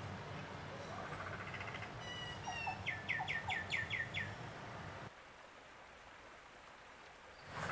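Birds calling: a quick run of about six sharp, evenly spaced chirps and a short whistle, over a low steady hum that cuts off suddenly about five seconds in.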